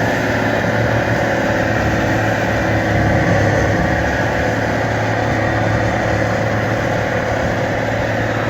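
Case IH MX210 tractor's diesel engine running steadily under load while powering a Highline bale processor that is shredding reed canary grass bales, which take more horsepower to process than straw.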